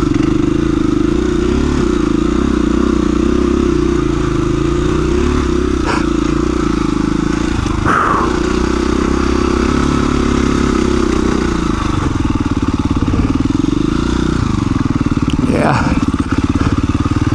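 KTM 350 EXC-F's single-cylinder four-stroke engine running under load as the bike climbs a rocky trail, the revs rising and falling with the throttle and climbing near the end. A couple of short knocks sound near the middle.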